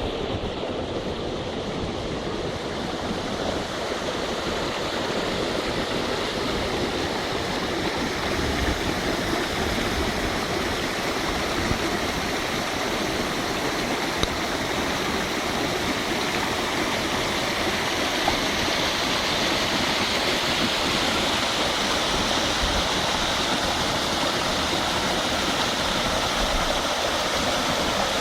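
Steady rush of water from a combined sewer and storm-drain outfall, running after a storm. It grows a little louder over the first several seconds, then holds steady.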